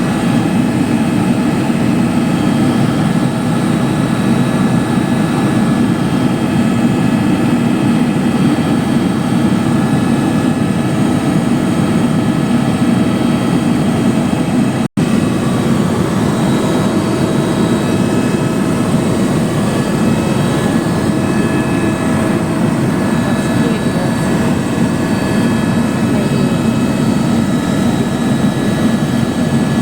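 Helicopter in flight: a loud, steady drone of engine and rotor. It cuts out for an instant about halfway through.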